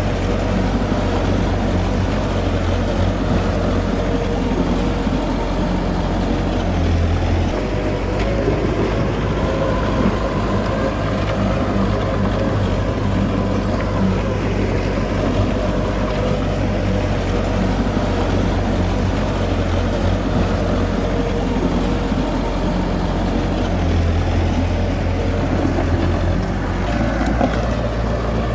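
Heavy diesel engine of earthmoving equipment running steadily, its low note swelling briefly about seven seconds in and again near the end.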